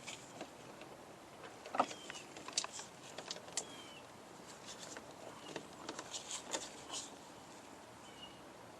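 Scattered small clicks, taps and scrapes with a few brief faint squeaks, from hand work on metal parts: a fitting being worked into the engine's threaded oil pressure sensor port while trying to get the threads to catch.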